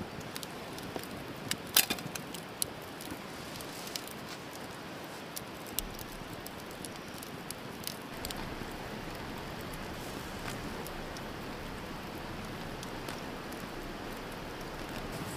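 Campfire crackling: scattered sharp pops over a steady hiss, with a cluster of loud pops about two seconds in.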